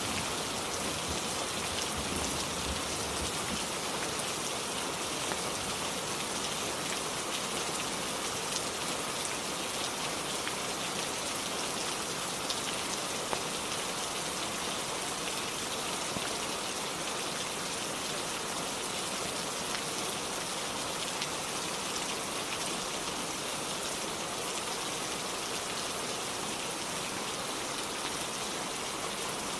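Steady rain falling, an even dense hiss, with the last of a low thunder rumble fading out in the first couple of seconds and a few isolated sharp ticks.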